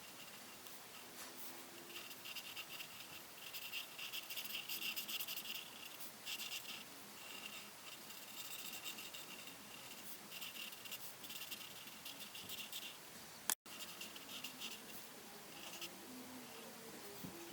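Coloring strokes scratching on paper, coming and going in short runs as a page is colored in. A sharp click about thirteen and a half seconds in, where the sound briefly cuts out.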